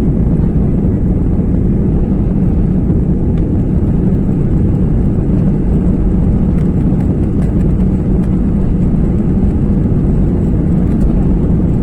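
Steady, loud low rumble of an airliner's engines and airflow as heard inside the passenger cabin during takeoff.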